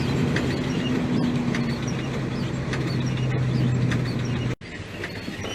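Truck engine running steadily with a low hum, cut off abruptly near the end and followed by a quieter stretch.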